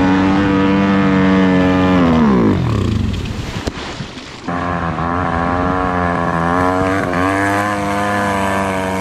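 SDG 190cc pit bike engine running at high revs, then the revs sag and fall off about two and a half seconds in; it is back at high revs a couple of seconds later and holds, then starts to drop again at the end. The engine is bogging, short of power under the load of trying to ride on water.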